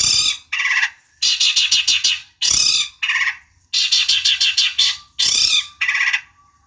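Long-tailed shrike (cendet) singing in harsh, rapid chattering bursts, about nine of them, each under a second long with short pauses between. It is a full-voiced lure song of the kind used to provoke rival shrikes into answering.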